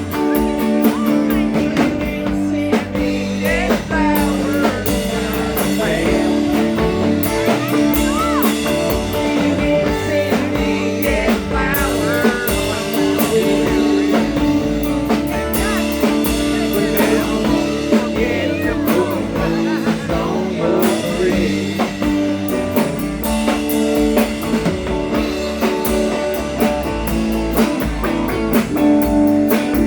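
Live rock band playing a bluesy song, with electric guitar and a drum kit.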